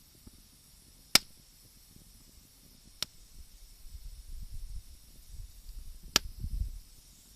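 Wood bonfire with three sharp pops from the burning wood, about a second, three seconds and six seconds in, over a faint hiss, with a low uneven rumble in the second half.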